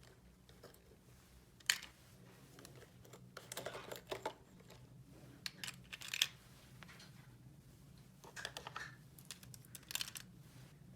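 Light, scattered clicks and rustles of small plastic toy pieces being handled, with two sharper clicks, about two seconds in and about six seconds in.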